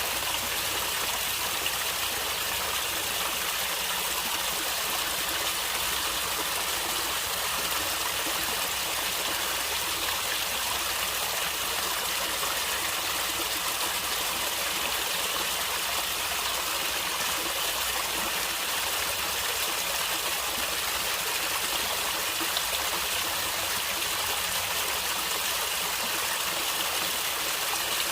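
Stream water flowing and gurgling steadily, an even rushing hiss with no change in level.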